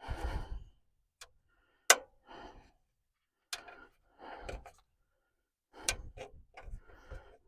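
Scattered sharp clicks and short scuffing and rubbing sounds of hands working a rubber O-ring gasket into the groove of a plastic fuel filter housing.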